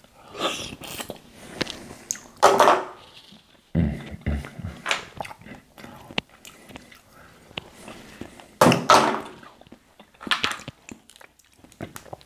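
Close-miked eating sounds: a man chewing and smacking on mussels in irregular wet bursts, with scattered clicks from handling the shells.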